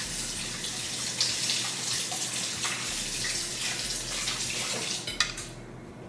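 Kitchen tap running into a sink, turned off with a couple of clicks about five and a half seconds in.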